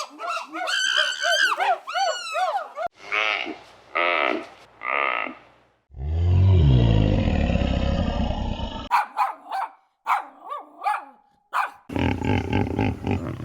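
A run of different animal calls cut one after another: rising and falling pitched calls, then three repeated calls, then a loud, low call lasting about three seconds, followed by shorter calls and clicks.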